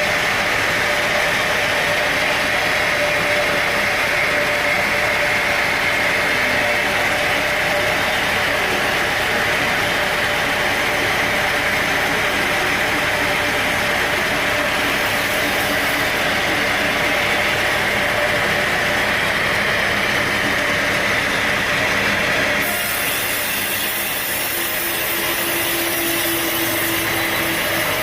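Sawmill blade cutting steadily through an oak log, a loud, even sawing noise. Near the end the cutting noise drops away and an engine is left running.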